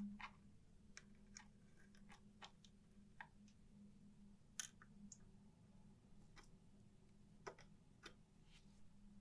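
Faint, irregular light clicks and taps of small hard parts being handled, the sharpest about four and a half seconds in, over a faint steady hum.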